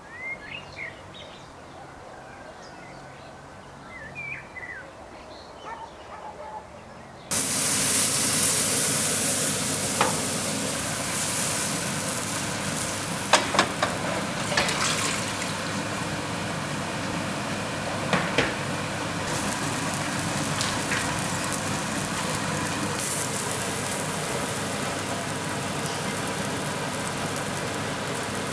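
Small birds chirping faintly. About seven seconds in it cuts suddenly to the loud, steady sizzle of pancake batter frying in a hot pan, with a few sharp clicks and pops.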